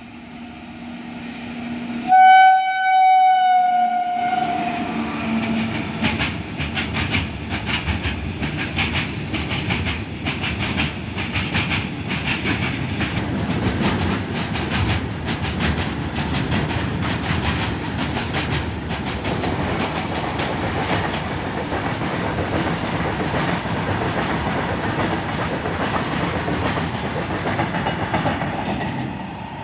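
Indian Railways train passing at speed: a loud horn blast of about two seconds, dropping in pitch as the locomotive goes by, then the rapid clickety-clack of wagon wheels over rail joints for the rest of the passage, stopping suddenly near the end.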